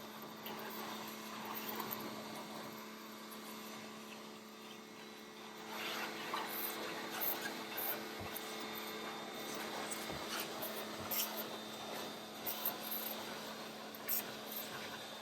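Pressure washer running, with a steady motor hum under the hiss of its water jet spraying a car wheel and wheel well. The spray gets louder and spattery about six seconds in.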